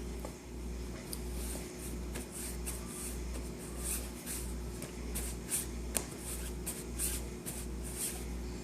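Soft, scratchy rustling with short clicks over a steady low rumble that dips about twice a second.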